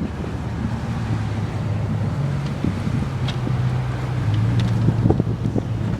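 Pickup truck driving, its engine a steady low drone under wind rushing over the microphone, heard from the open truck bed. A few light knocks about five seconds in.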